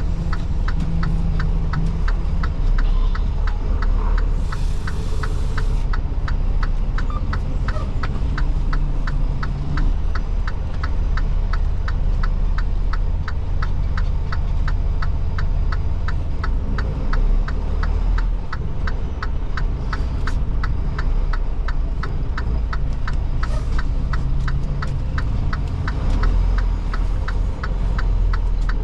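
Semi truck's diesel engine droning steadily, heard inside the cab, with a turn-signal flasher clicking evenly at about two to three clicks a second. A short hiss of air comes about five seconds in.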